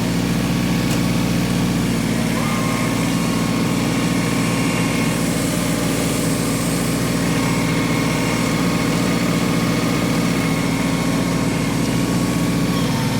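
LS XG3025 compact tractor's three-cylinder diesel engine running steadily at an even pitch.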